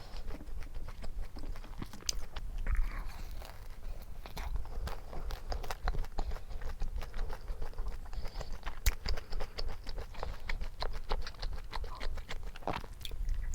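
Mouth sounds of close-up eating: biting and chewing food, many small irregular clicks and crunches.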